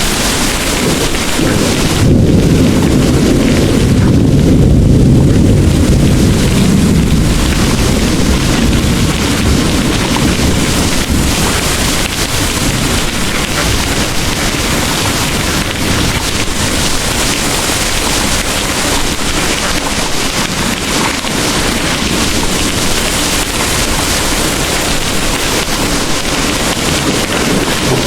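Heavy rain pouring steadily, with a low roll of distant thunder swelling a couple of seconds in and fading out over several seconds.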